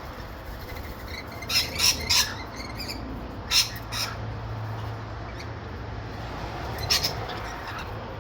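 Wild birds giving short, sharp squawking calls: a quick cluster of three about a second and a half in, two more a little later, and one near the end, over a steady low background hum.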